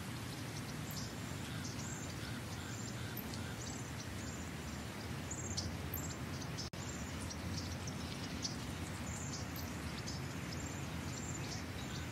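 Birds chirping, many short high calls in quick succession over a steady low rumble of background noise.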